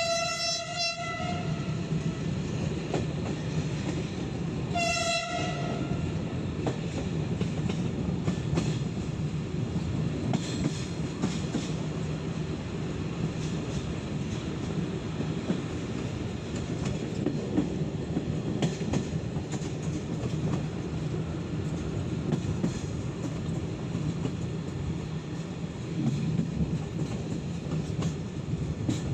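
Passenger train rolling along, heard from a carriage window: the diesel locomotive's horn sounds twice, once ending about a second in and again briefly about five seconds in. The wheels keep up a steady rumble and clatter on the rails.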